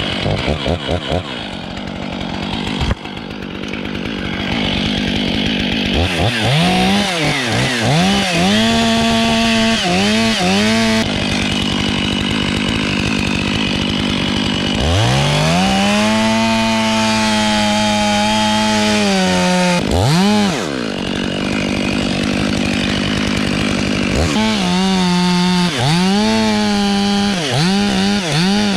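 Chainsaw cutting wood, its engine revving up and dropping back again and again as the chain bites, with a longer stretch held at high revs in the middle.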